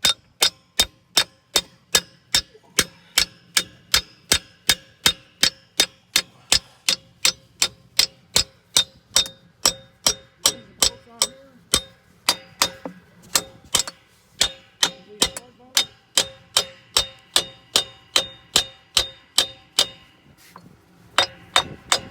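Steady, rhythmic hammer blows on steel, about three a second, each one ringing. It sounds like a metal wedge being driven onto the axle of a tractor's rear wheel hub.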